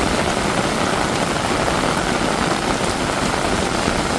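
Heavy rain falling and splashing on the ground and nearby surfaces, a steady dense hiss.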